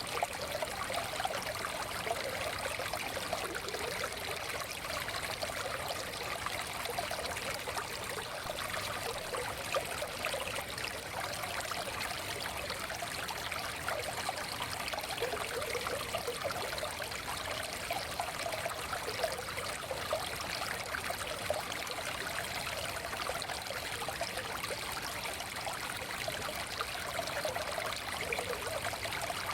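Small stream running over stones, a steady trickling and gurgling flow.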